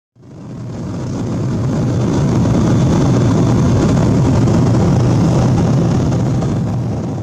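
Steady rumble of jet engines and rushing air inside the cabin of a Boeing 777-200 in flight, with a faint high whine above it. It fades in over the first second and begins fading out near the end.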